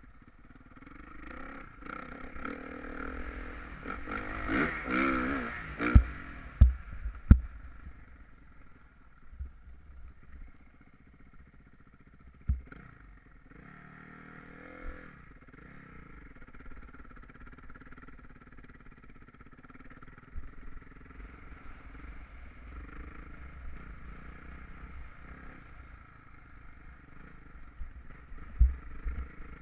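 Motocross bike engine running and revving, its pitch rising and falling sharply about five seconds in, then running on more quietly. Several sharp low thumps come around six to seven seconds in, once more near the middle, and twice near the end.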